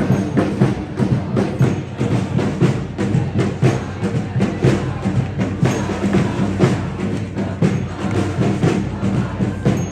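Protest march percussion: drums and wood-block-like strikes beating a fast, steady rhythm, several strokes a second, with the marching crowd underneath.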